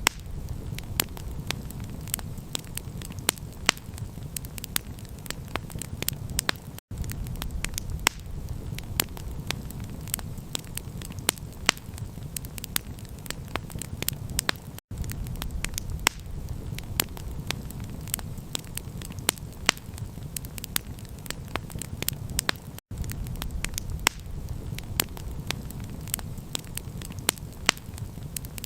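Campfire crackling, with frequent sharp pops and snaps over a steady low rumble. Very brief dropouts to silence come about every eight seconds.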